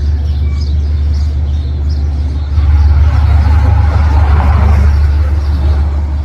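Train passing: a steady low rumble that swells about two and a half seconds in, with a rushing noise of wheels and air, then eases near the end.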